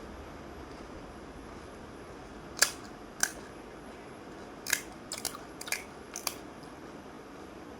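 Crisp fried fuchka (panipuri) shells crunching as they are bitten and chewed: a run of sharp, short crunches, coming closer together a little past halfway. A steady hiss lies under them.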